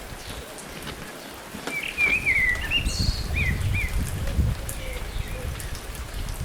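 A bird calling in a quick run of short warbling chirps for about two seconds, over a steady low wind rumble on the microphone and faint scattered crackling.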